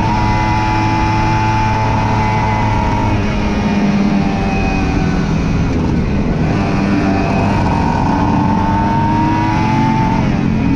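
Aprilia RS 125 motorcycle engine running under way. The engine pitch holds, falls about three seconds in, then climbs steadily and falls again near the end, like gear changes while accelerating.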